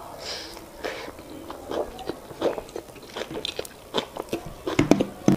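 Close-miked chewing of a mouthful of soft boiled root vegetable: a run of wet clicks and lip smacks, loudest near the end.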